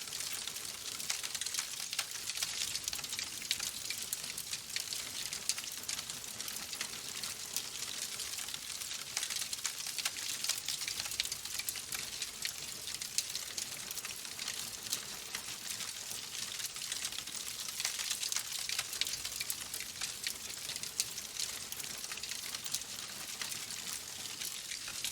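Logs burning in a fireplace, crackling steadily: a dense stream of small pops and crackles over a soft hiss.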